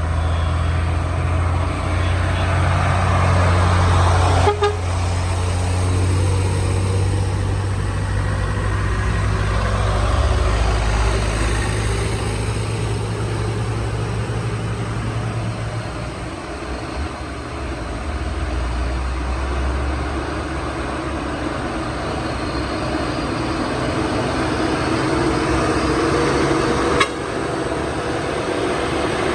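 Heavy trucks' diesel engines running at low revs in slow, jammed traffic on a steep climb, with horns sounding. The deep engine drone drops away about two-thirds of the way in, and there is a sharp knock a few seconds in and another near the end.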